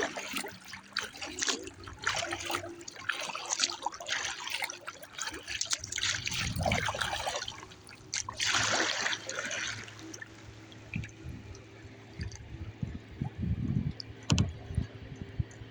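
Water splashing and trickling around a kayak being paddled through light chop, busiest over the first ten seconds or so. After that it is quieter, with scattered low thumps.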